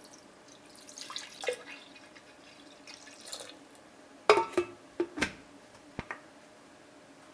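Objects being handled and set down: a soft rustle, then about six sharp knocks and clinks in quick succession, a few with a brief ring.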